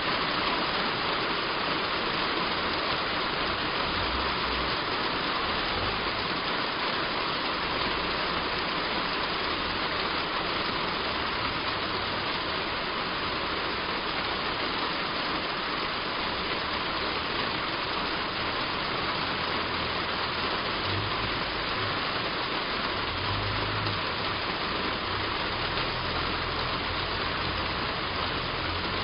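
Heavy rain falling steadily on a roof, an even, unbroken patter.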